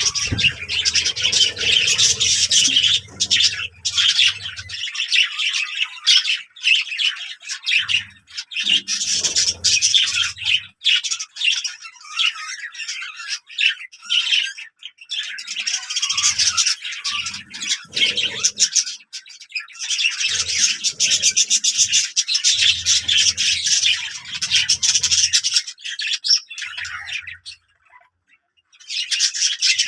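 Birds chirping and squawking in long bouts of fast, dense chatter, stopping for a moment near the end before starting again.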